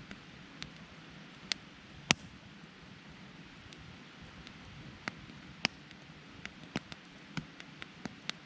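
Wood campfire crackling: irregular sharp pops over a steady low hiss of burning, one loud snap about two seconds in.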